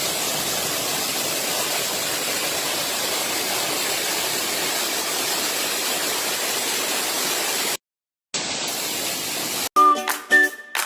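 Waterfall rushing steadily, broken by a brief cut to silence about eight seconds in. Near the end, music starts over it.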